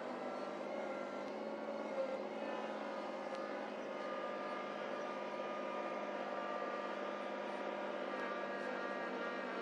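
Small tractor's engine running steadily at a constant speed.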